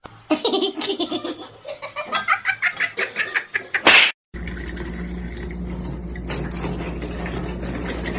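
A person laughing in quick repeated bursts for about four seconds. Then an abrupt cut to a steady low hum with background noise.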